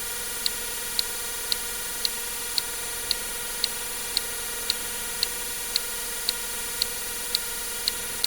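Short, sharp ticks at an even rhythm of about two a second, over a constant electronic hiss and faint hum: the steady tick of a counter stepping up.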